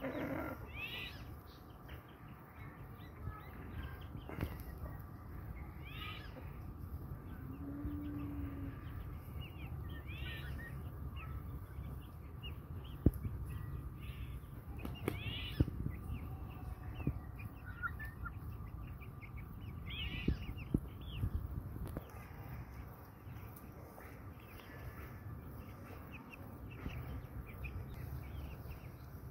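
Brahma chickens calling: short high chirps every few seconds, with one low drawn-out note about eight seconds in. A few sharp taps come in the middle.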